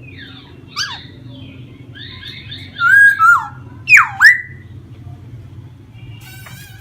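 A caged laughingthrush singing: a single sharp note, then a quick run of chirps leading into loud whistled notes that swoop down and back up, around three and four seconds in, with a short rapid trill near the end. A steady low hum runs underneath.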